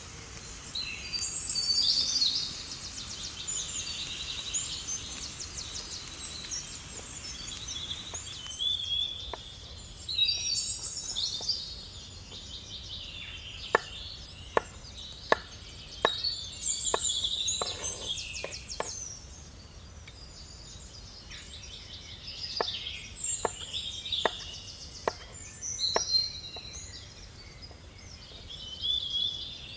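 Several songbirds singing and chirping, with trills, throughout. From about a third of the way in, a series of sharp knocks comes at irregular intervals under the birdsong. A faint steady hiss stops about a third of the way in.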